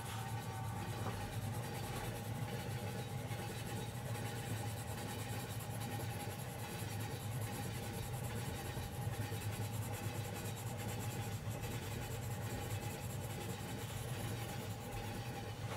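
Steady rumble of a train ride heard from inside a carriage, with a thin steady whine above it.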